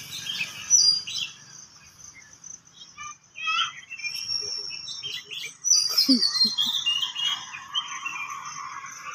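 Several birds chirping and singing, with quick runs of falling notes and a longer high trill in the second half. A brief lower sound about six seconds in.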